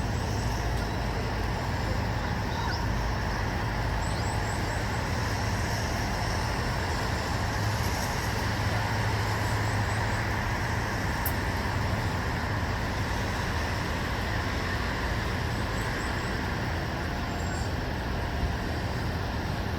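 Steady hum of distant road traffic, an even rumble with no single vehicle standing out.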